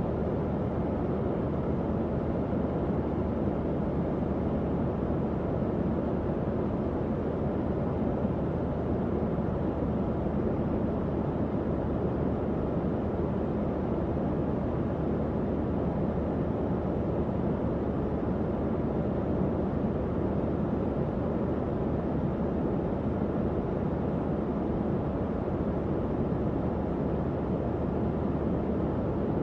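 Electric tower fan running steadily: a constant low whoosh of moving air with a faint steady hum from the motor.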